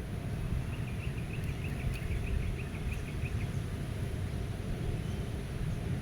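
A low, steady wind noise, with a distant bird singing a rapid trill of short high notes, about five a second, from near the start until about halfway through.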